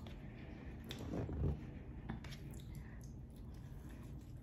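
Close-miked eating sounds: a woman biting into and chewing a homemade burger, with soft wet clicks and squishes. There is a louder stretch about a second in.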